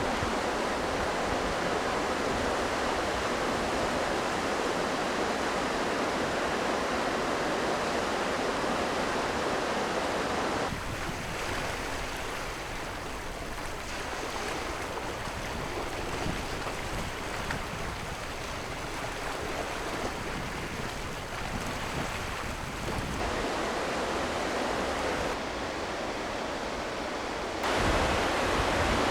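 Sea surf: a steady rush of waves with no distinct tones, changing abruptly in loudness and tone several times, most clearly about a third of the way in and again near the end.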